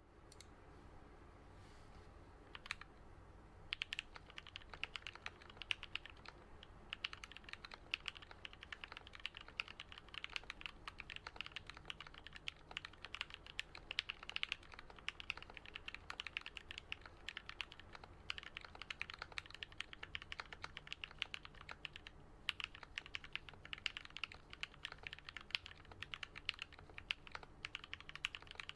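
Typing on a Switch Couture Alice custom mechanical keyboard with lubed and filmed Gateron Yellow linear switches and lubed Durock stabilizers, giving a thock. A single keystroke comes about three seconds in, then fast, steady typing starts about four seconds in, with short pauses.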